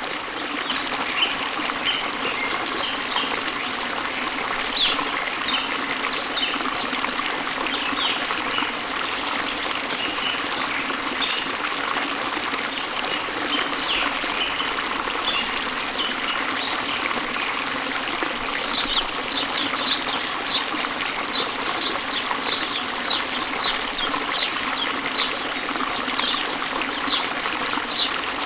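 Waterfall water running steadily, with small songbirds chirping over it. From about two-thirds of the way in, a bird repeats short high notes two or three times a second.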